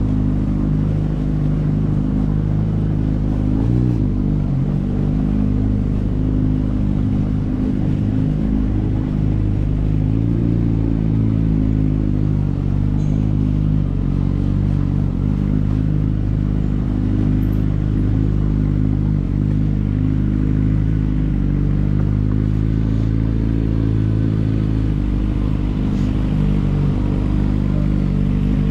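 Steady low drone of an e-bike in motion, its pitch holding nearly constant with a few slight dips.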